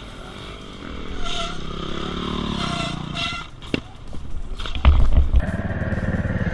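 Motorcycle engine running, its pitch rising and falling, with a sharp click near the middle and a loud low thump about five seconds in, after which the engine runs steadily.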